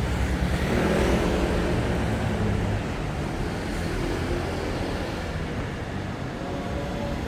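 City street ambience: a steady low rumble of traffic with faint voices of passers-by about a second in and again around four seconds.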